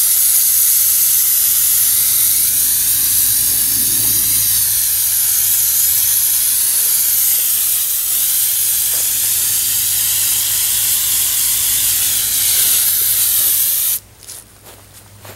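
Aerosol can of engine degreaser spraying in a long, steady hiss. The spray stops about 14 seconds in and is followed by a few short spurts near the end.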